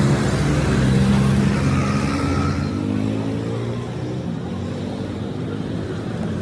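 An engine running steadily, a little louder in the first half and easing slightly after about three seconds.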